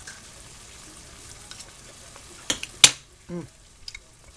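Food sizzling in a frying pan, a faint steady hiss, with two sharp clacks of a utensil against the pan about two and a half seconds in.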